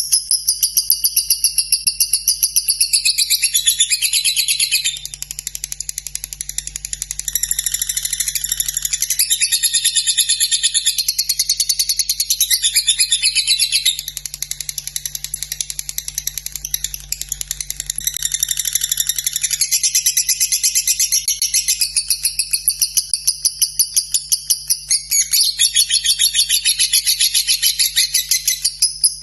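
Lovebird singing its long 'ngekek' song: a fast, continuous chattering trill of rapid ticking notes run together with hardly a pause.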